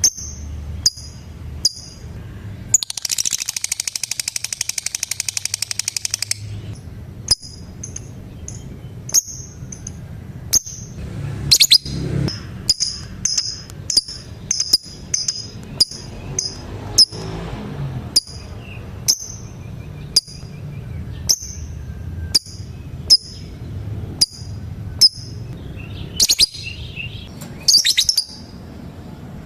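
Lovebirds calling: sharp, high chirps repeated about twice a second, with a rapid chattering trill lasting about three seconds near the start, the long trill that keepers call ngekek.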